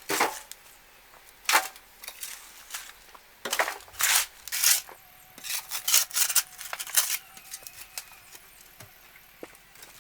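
A run of irregular sharp knocks and short scraping sounds of hard objects, about a dozen in the first seven seconds, then only faint ticks.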